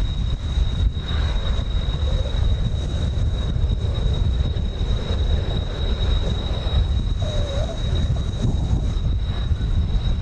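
Distant jet noise from Kawasaki T-4 jet trainers flying overhead: a steady rushing with a thin, constant high whine. Heavy wind rumble on the microphone lies underneath.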